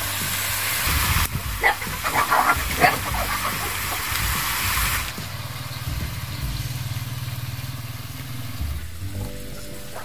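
Chicken pieces sizzling in a wok over a wood fire, with a few short clatters, the sizzle cutting off suddenly about five seconds in. A quieter low steady hum follows.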